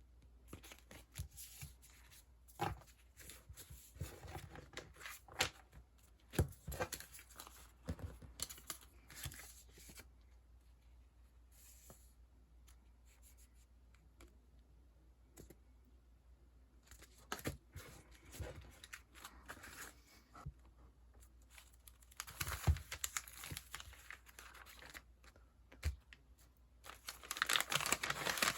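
Sticker packaging and sheets being handled: crinkling and tearing in short bursts with quiet gaps between them, and a denser, louder stretch of crinkling near the end.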